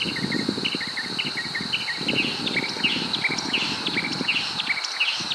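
Honey bees buzzing low around an open hive, dropping away shortly before the end, over a background of many short, rapid high chirps and a steady high whine.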